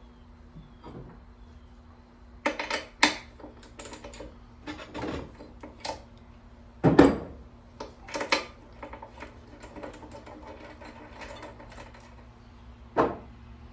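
Hand tools and small metal parts being handled on a workbench: a string of clinks and knocks, the loudest about seven seconds in and another near the end, over a faint steady hum.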